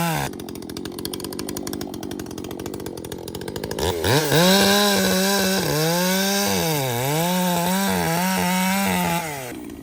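Ported Echo CS-620PW chainsaw coming off full throttle, then revving back up about four seconds in and cutting wood. Its engine pitch dips several times as the chain loads in the cut, and it drops off the throttle near the end.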